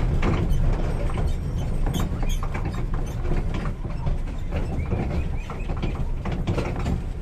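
Small park train running on its track: a steady low rumble with frequent clanks and rattles from the wheels and cars.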